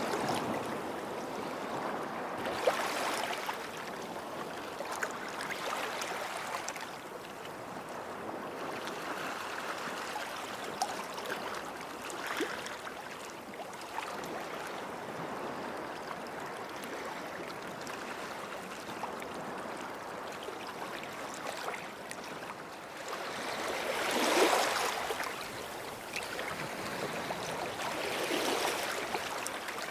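Small waves washing onto a sandy beach shore: a steady wash that swells and falls, with the biggest surge about four-fifths of the way through and another near the end.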